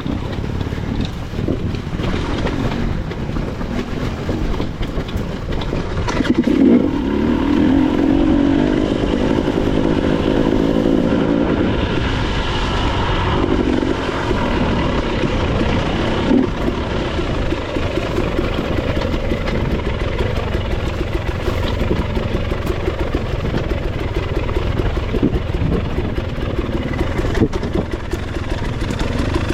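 Motorcycle engine running on the road over a steady low rumble, its tone strongest from about six seconds in to about fourteen seconds in.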